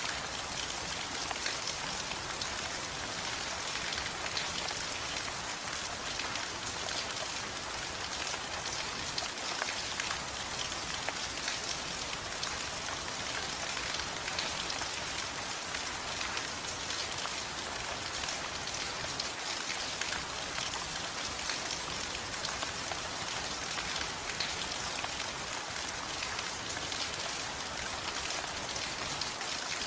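Steady rain falling on a surface, an even hiss flecked with individual drops.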